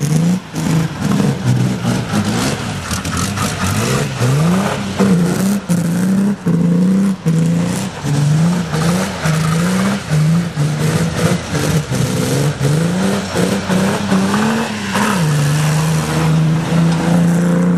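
Ford 2.8 litre Cologne V6 in a BMW 315, revved hard while the car slides on snow. The engine note climbs and drops back again and again, with brief breaks between the climbs, then holds steady high for a couple of seconds near the end.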